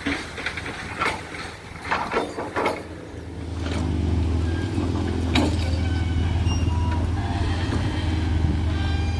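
Irregular metallic clanks and scrapes, then about three seconds in a heavy diesel engine comes up loud and runs steadily, with faint high-pitched squeals over it.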